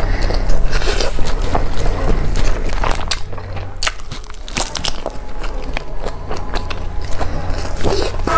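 Close-miked eating: chewing, with crisp crunches and sharp mouth clicks as a lettuce leaf wrapped around rice is bitten and chewed, over a steady low hum.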